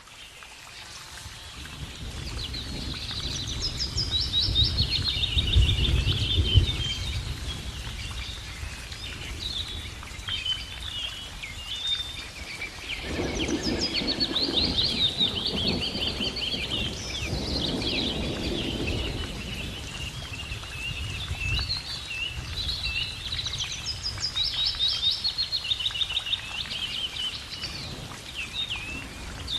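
Several birds chirping and trilling in rapid repeated phrases over a steady background rush, with low rumbling swells that come and go.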